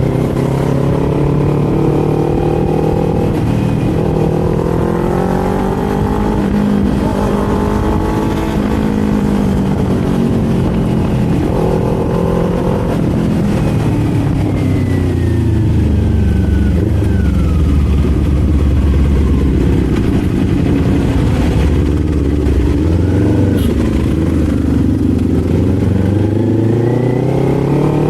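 Kawasaki Z400's parallel-twin engine under way, revving up and dropping back as it shifts through the gears. About halfway through the pitch falls to a low, slow run as the bike slows, then climbs steadily again near the end.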